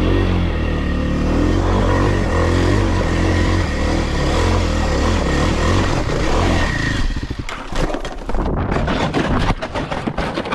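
Dirt bike engine running hard on a steep rock climb, then about seven seconds in the engine note drops away into a run of clattering and scraping knocks as the bike goes down and crashes on the rock.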